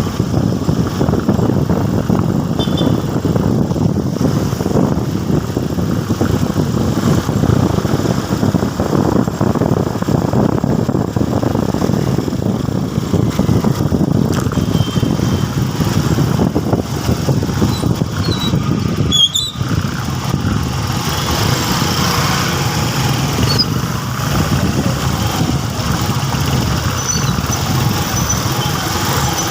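Motorcycle engine running steadily during a ride, with one brief drop in the sound a little past two-thirds of the way through.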